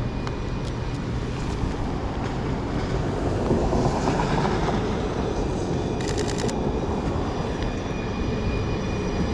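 A rail trolley passes on the street, a steady rumble that swells about four seconds in. A brief run of rapid clicks comes about six seconds in, and a thin high whine rises near the end.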